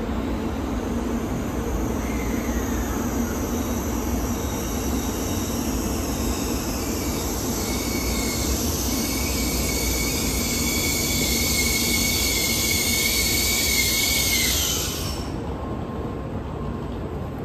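JR Central N700S Shinkansen pulling into the platform and slowing to a stop: a rushing hiss with high squealing tones that grows louder, then cuts off suddenly about fifteen seconds in as the train halts, leaving a low rumble.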